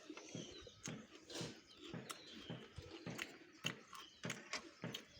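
Close-up eating sounds: irregular wet clicks and smacks of chewing, with a few faint bird chirps.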